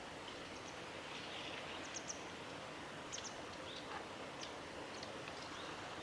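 Brief, high chirps from small birds, several in quick pairs about two and three seconds in and a few single ones later, over a steady low outdoor hiss.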